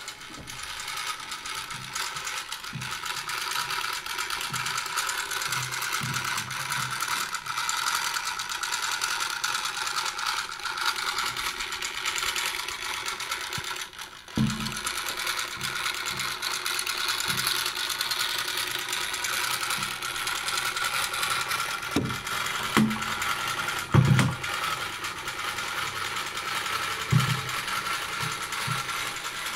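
Clockwork motor of a Bassett-Lowke toy cargo ship running with a steady, fine whirr of its spring-driven gear train. A few dull knocks come in the second half.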